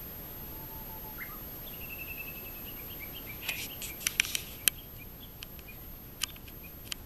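A bird calling faintly, a short whistle, a quick rising note, then a thin held high note, over steady hiss. A cluster of sharp clicks comes about halfway through, with two more single clicks near the end.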